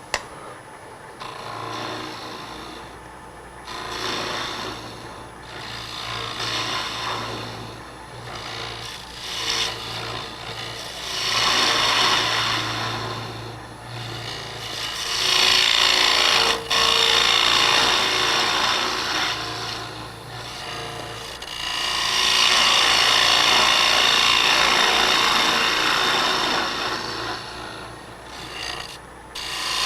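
Wood lathe running while a gouge cuts the spinning maple workpiece, a hissing shaving sound that swells with each pass and eases between passes, over the lathe motor's steady low hum. Several long cuts, the loudest in the second half.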